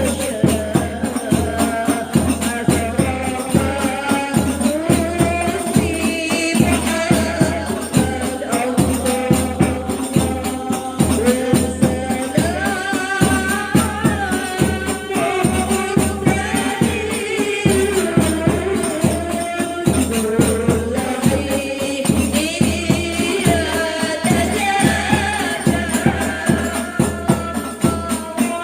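Sholawat sung by a group of women to hadroh frame drums (rebana), with fast, steady drumming under the melody.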